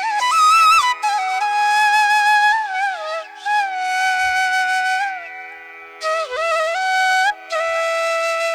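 Flute music: a slow melody of long held notes with slides and bends between them, in phrases broken by short pauses, over a faint steady low drone.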